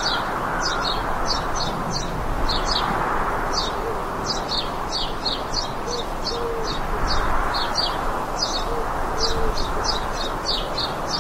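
Birds chirping outdoors, short high chirps about twice a second, with a few low short calls in pairs, over a steady rushing background.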